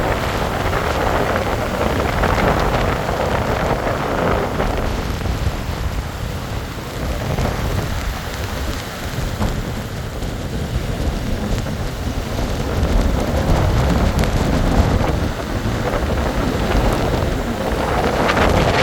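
Storm wind blowing hard and buffeting the microphone: a heavy low rumble under a rushing noise that swells and eases in gusts.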